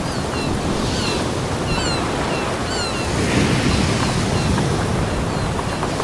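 Ocean surf washing on a beach: a steady rushing of waves. Over it, in the first half, comes a run of short, high falling chirps.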